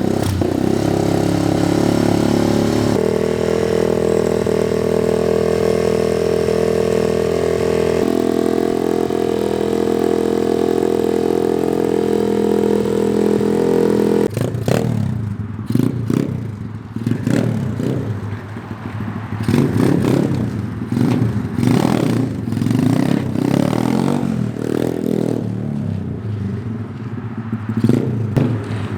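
SSR 125 pit bike's single-cylinder four-stroke engine running. It holds a steady note for about the first half, then, from about halfway, revs up and down in repeated uneven surges as the throttle is worked on and off.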